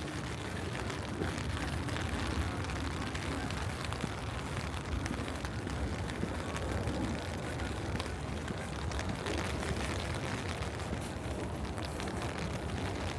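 Steady city street noise: a low, even traffic rumble with a constant hiss over it.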